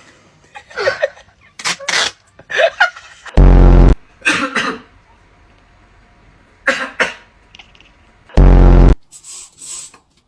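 A cat gagging and retching in short bursts, the involuntary gag reflex that certain sounds set off in cats. Twice a very loud, low, buzzy blast about half a second long cuts in.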